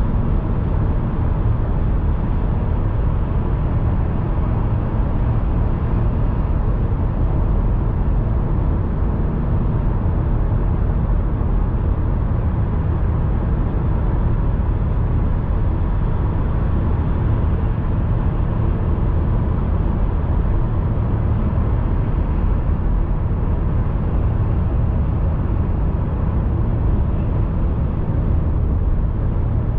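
A car driving at a steady pace: a constant low rumble of road and engine noise that does not change.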